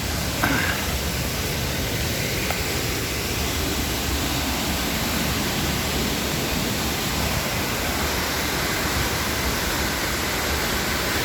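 A waterfall about 30 metres high, close by: a steady, unbroken rush of falling water.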